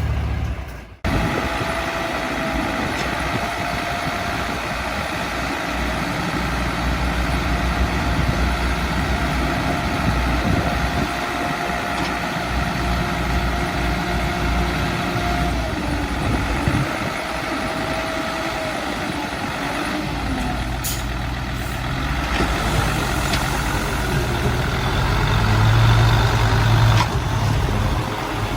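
Diesel engines of heavy earthmoving machinery running continuously as the machines work. A thin steady whine sounds over the engine noise through the first half.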